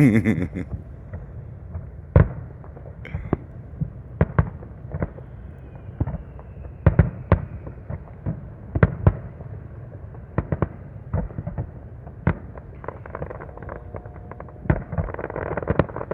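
Aerial fireworks bursting: a string of sharp bangs at irregular intervals, some close and loud, over a steady low rumble of more distant explosions. A brief crackle comes near the end.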